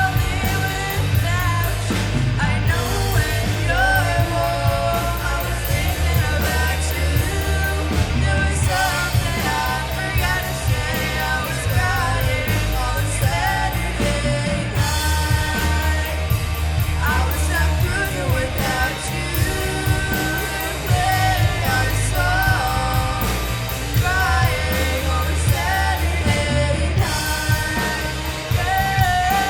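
Live rock band playing, with a lead singer over electric guitar, bass and drums, the cymbals striking steadily.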